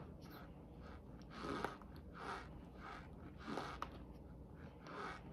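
A mouthful of cornstarch being chewed close to the microphone, crunching and crackling in a steady chewing rhythm of about one or two chews a second.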